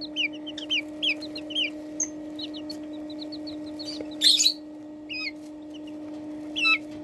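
A month-old male white Silkie chick peeping: a quick run of high chirps, then sparser calls, with one brief louder, harsher sound about four seconds in. A steady low hum sits underneath.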